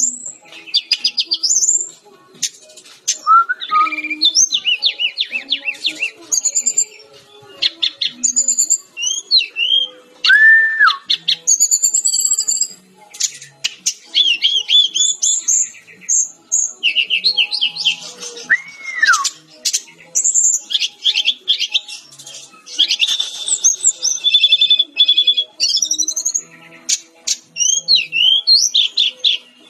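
Sikatan-rimba dada-coklat (Cyornis jungle flycatcher) singing a continuous, varied song of rapid chirps, trills and high whistles, broken by a few lower slurred whistles.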